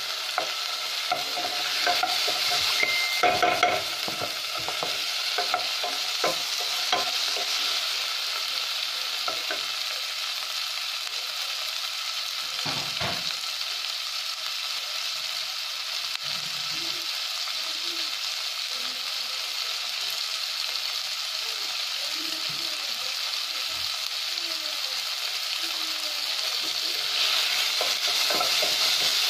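Onions, tomato and meat sizzling in oil in a nonstick pot while a wooden spatula stirs and scrapes them, with a run of knocks and scrapes in the first several seconds. The sizzle grows louder near the end as the food is stirred again.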